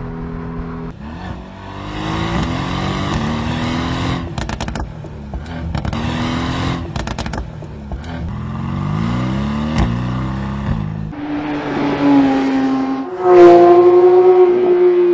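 Sports car engine revving up and dropping back through several gear changes, with sharp exhaust crackles twice in the middle. Near the end a higher-pitched engine holds high revs, the loudest part.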